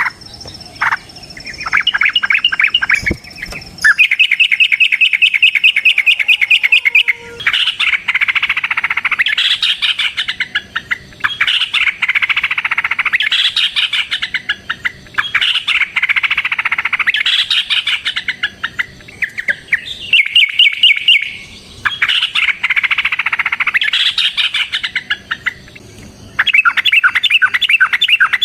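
Yellow-vented bulbul singing a long, rapid-fire song: runs of quickly repeated high notes in phrases several seconds long, broken by short pauses.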